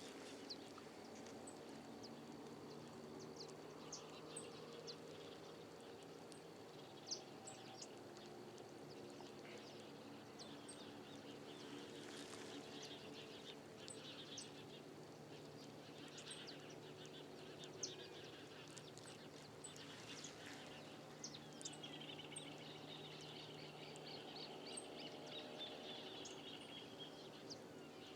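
Faint riverside outdoor ambience: scattered short bird chirps and calls, with a drawn-out high trill lasting several seconds in the second half, over a low steady hum.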